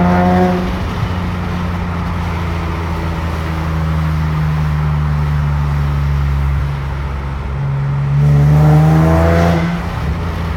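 Nissan 370Z's 3.7-litre V6 running, with a high screeching whine over the engine note. The screech is heard briefly at the start, then returns near the end, rising in pitch as the engine gets louder, before cutting out. It is an undiagnosed noise that appears only between 3,500 and 4,000 rpm, with or without the air conditioning on, and sets no check-engine light.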